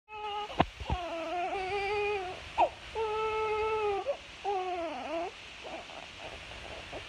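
An infant crying: three long wails in a row with a short sharp intake of breath between the first two, then fading into faint short whimpers about five seconds in, over a steady hiss.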